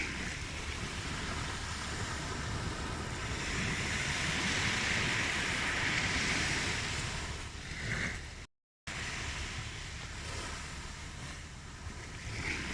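Ocean waves washing on a shore: a steady rush that swells to a peak about midway and then eases back, cutting out completely for a moment about two-thirds of the way through.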